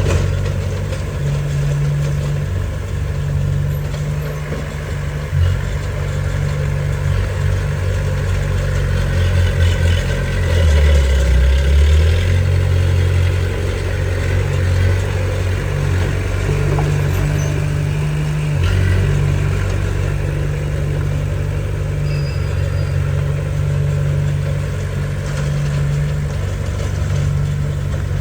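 Heavy earthmoving machine's diesel engine running under changing load, getting louder and deeper for a second or two about eleven seconds in.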